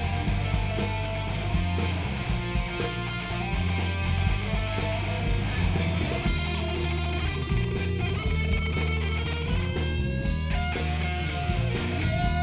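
Live rock band playing an instrumental stretch between sung lines: electric guitar over a steady bass line and drums.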